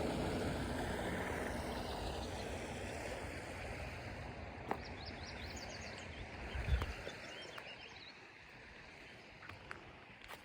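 Steady rush of running water that fades gradually, with a few faint bird chirps about halfway through and a soft low bump near the two-thirds mark.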